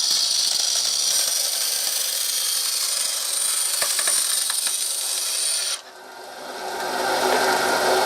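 Small power tool running with a steady high-pitched whine as it makes another cutting pass through thin plastic. It stops abruptly about six seconds in, and a rougher, lower noise builds up after it.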